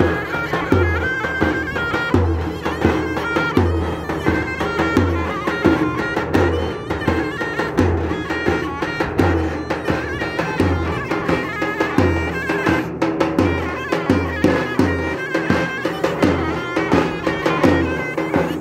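Davul and zurna playing a Turkish folk tune: the zurna's loud, reedy melody in quick, ornamented notes over a steady beat of low davul strokes.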